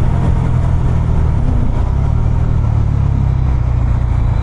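Bajaj Dominar 250's single-cylinder engine and exhaust running steadily under way, heard from the rider's position, with a rush of wind and road noise over it.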